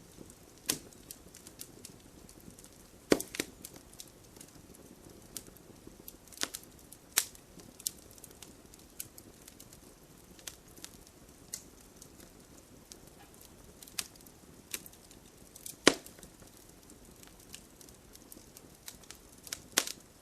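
Wood fire burning logs, with irregular sharp crackles and pops over a low steady hiss; the loudest pops come about three seconds in and again near the end of the second quarter-minute.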